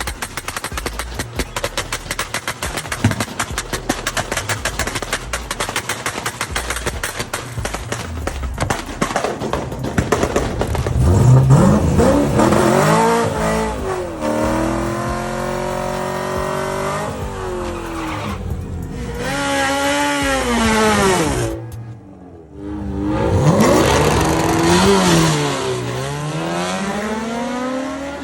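Racing car engine at high revs with a rapid rattling pulse for the first third, then accelerating hard, its pitch climbing and dropping again with each gear change. A short break about two-thirds through, then another hard acceleration through the gears.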